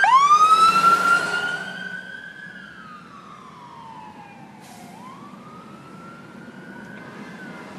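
Emergency vehicle siren switching from a fast yelp into a slow wail that rises, falls to its lowest about five seconds in, and rises again. It grows much fainter within the first two seconds and stays faint after that.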